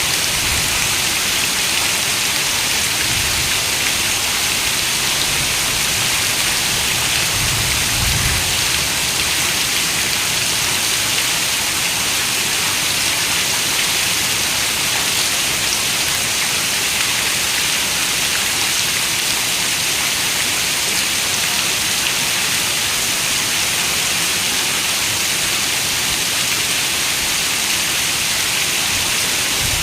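Steady rain falling, an even dense hiss that holds at one level throughout, with a faint low rumble about three seconds in and again around eight seconds in.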